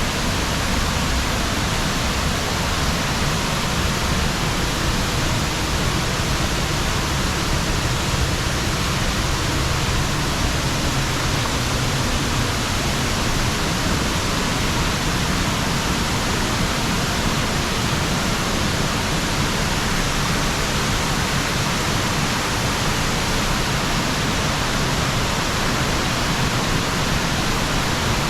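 Loud, steady rush of falling water, unbroken and even.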